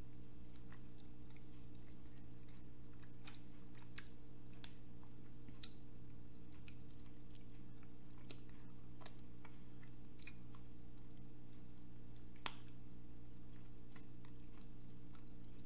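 Close-miked chewing and biting on barbecue chicken wings: irregular wet clicks and smacks, a few each second, over a steady low hum.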